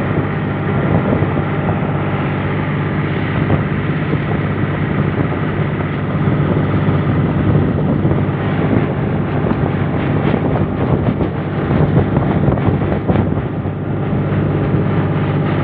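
John Deere 5045 tractor's three-cylinder diesel engine running steadily under load at road speed, with intermittent clatter.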